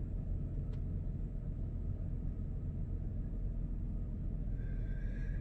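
2002 Chevrolet Silverado pickup's engine idling steadily with a low rumble.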